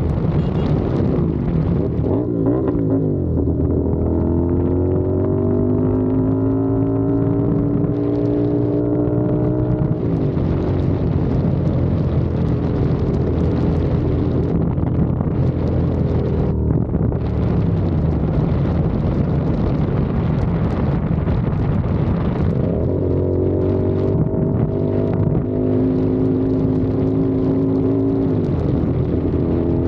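CFMOTO 450SR parallel-twin engine and exhaust under way, its pitch climbing as it accelerates over the first several seconds and again near the end, with wind noise on the microphone throughout.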